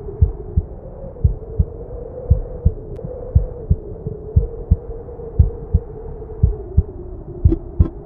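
A slow heartbeat, paired low thumps about once a second, over the steady wavering howl of blizzard wind. Near the end the thumps come faster and gain a clicking edge.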